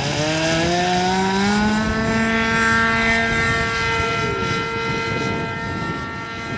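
RC model airplane engine running with its propeller, rising in pitch over the first two seconds as it is throttled up, then holding a steady note.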